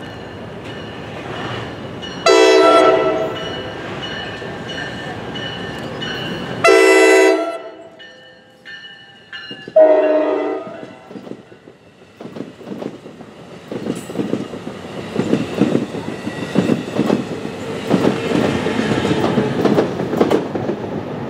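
NJ Transit commuter train sounding its horn three times as it approaches, each blast about a second long and a few seconds apart. The multilevel coaches then pass with a rapid clicking of wheels over the rail joints.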